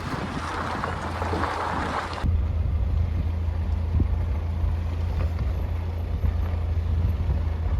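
Rushing wind noise, then about two seconds in an abrupt change to the steady low drone of a car driving on the road.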